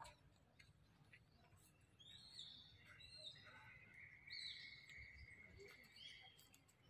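Faint bird calls: several short, high whistled chirps that slide down in pitch, starting about two seconds in, over a thin steady high note lasting a few seconds.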